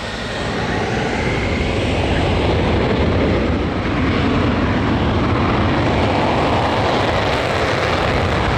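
Loud, steady engine noise of a military fast jet flying a display, building over the first second and then holding.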